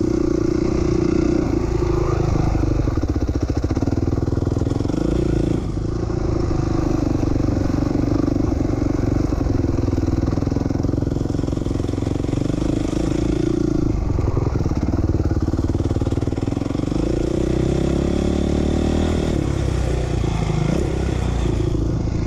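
2007 450R four-stroke single-cylinder dirt bike engine running under load while riding in second gear, with the throttle backed off briefly about six seconds in and again about fourteen seconds in, and the revs sliding up and down near the end.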